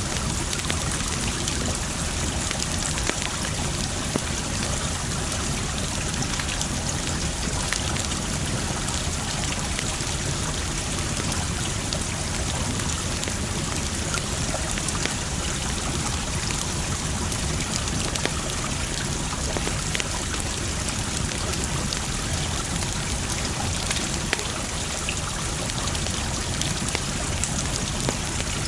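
Wood fire crackling, with sharp pops scattered through, over the steady sound of running water like a small stream.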